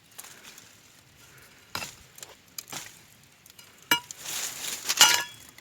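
A metal digging tool clinking against stones in the soil while a tree stump is being pried out: three sharp single strikes, then a louder scraping clatter about four seconds in.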